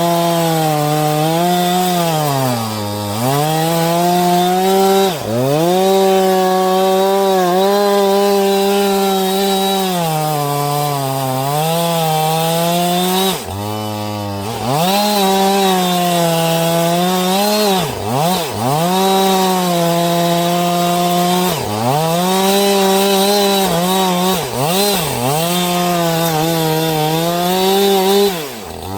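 Husqvarna 562 XP two-stroke chainsaw running near full throttle while cutting wood. Its revs repeatedly sag under load and pick back up, the laboured cutting of a dull chain that should be replaced.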